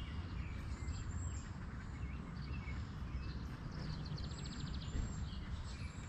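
Outdoor riverside ambience: a steady low rumble with faint, thin bird calls, and a short rapid train of clicks about four seconds in.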